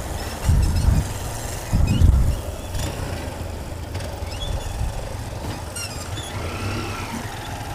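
Honda Titan 150 single-cylinder motorcycle engines idling with a steady low rumble, with two brief louder low surges in the first couple of seconds.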